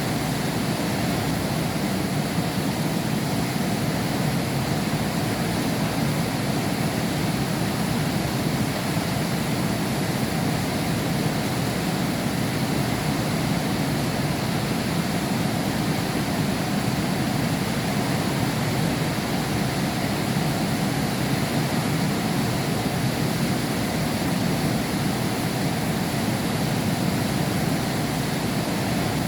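Heavy rain pouring in a steady, even rush, heard from behind a glass window.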